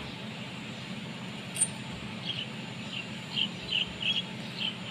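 A small bird chirping repeatedly in short high notes over a steady low hum. A single sharp metallic click sounds about one and a half seconds in.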